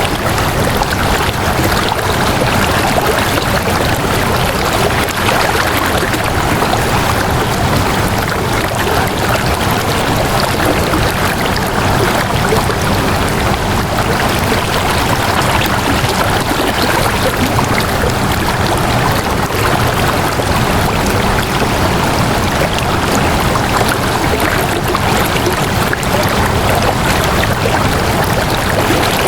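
Water flowing steadily, an even unbroken stream sound.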